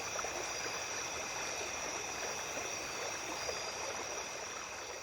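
A small stream babbling steadily, with night insects trilling without pause at several high pitches above it. Everything begins to fade out near the end.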